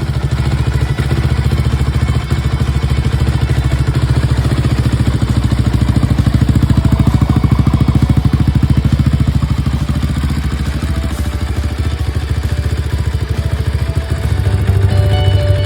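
Rebuilt 2006 Honda CRF250R's single-cylinder four-stroke engine running, its fast even firing pulses steady throughout and swelling slightly in the middle. Music joins near the end.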